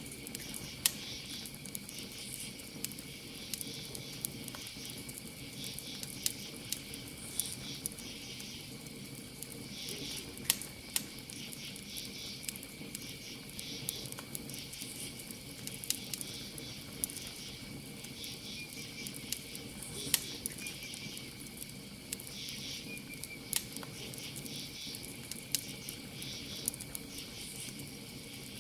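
Campfire crackling, with sharp pops of burning wood about once or twice a second over the fire's low steady rumble. Behind it, a steady high insect trill and rhythmic chirping of crickets.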